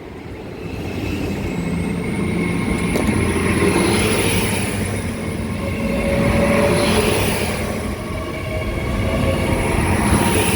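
LNER Class 800 Azuma bi-mode train passing close by, a swelling rumble of engines and wheels on the rails. A thin, steady high-pitched whine runs over it.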